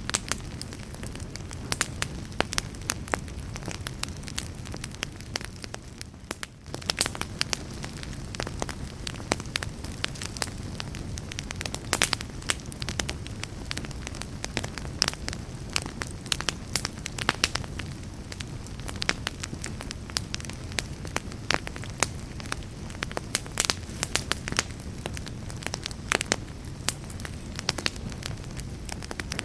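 Wood campfire crackling and popping, with many irregular sharp snaps over a steady low rumble of flames. It goes briefly quieter for about half a second around six seconds in.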